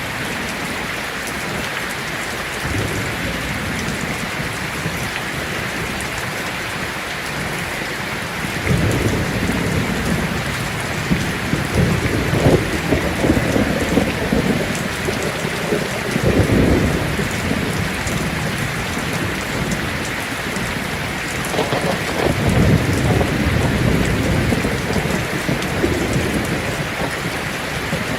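Heavy rain drumming steadily on a tin roof, with rolling thunder rumbling in about a third of the way through and swelling again twice later.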